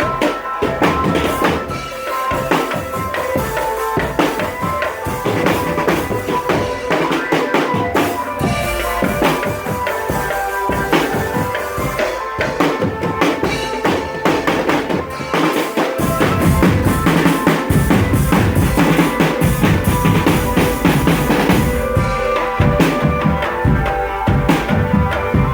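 Marching drum band playing: dense snare and bass drum strokes under a melody line. The bass drums come in heavier about two-thirds of the way through.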